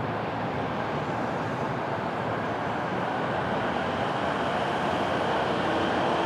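Train running past on the rails: a steady rolling noise of wheels on track, getting a little louder near the end as a faint steady hum comes in.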